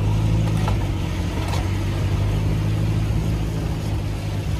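A car's engine running steadily at low revs, a low, even hum.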